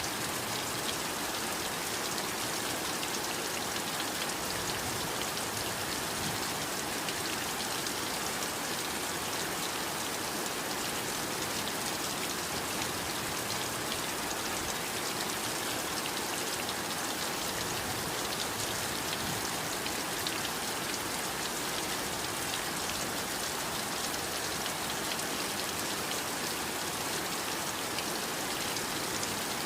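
Heavy rain falling steadily, a dense even hiss of many small drop impacts.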